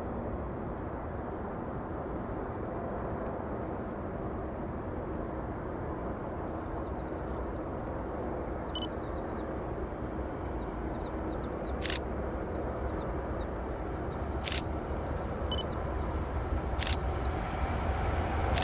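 Southbound Union Pacific freight train approaching on the downgrade: a steady low rumble that grows louder near the end. Three sharp clicks fall in the second half, and faint high chirps come in the middle.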